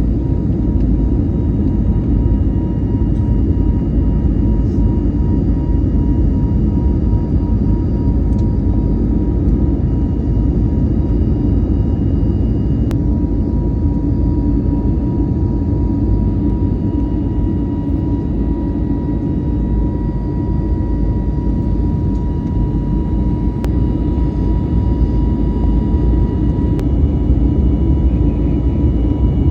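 Airliner engines running steadily, heard from inside the passenger cabin as a loud, even rumble with a high whine that grows stronger about halfway through.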